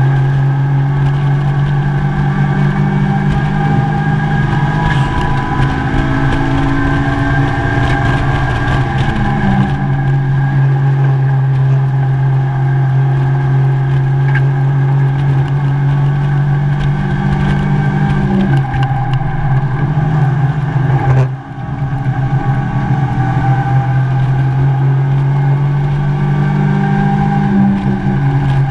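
Mazda MX-5 race car's four-cylinder engine running hard at high revs, heard from inside the stripped cabin. The engine note holds steady, changing pitch briefly about a third and two-thirds of the way in, with a short drop in loudness about three-quarters of the way through, as at a lift or gear change.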